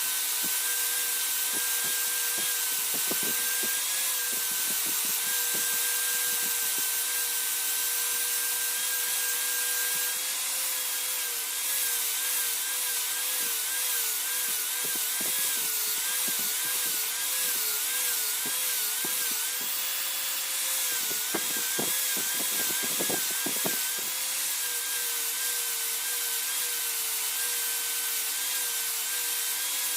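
Electric power tool running steadily over a hiss, its pitch wavering in places, mostly in the middle stretch, with scattered clicks.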